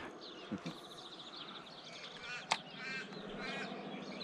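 Birds calling: a rapid, high trill runs on throughout, with a short series of repeated lower chirps in the middle. A single sharp click sounds about two and a half seconds in.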